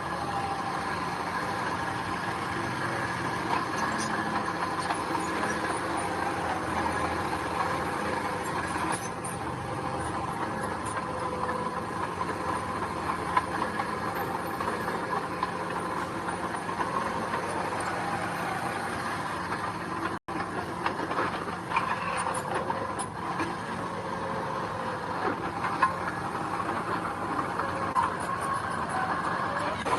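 Mini bulldozer's diesel engine running steadily, with scattered metallic clanks and rattles over it. The sound cuts out for an instant about two-thirds of the way through.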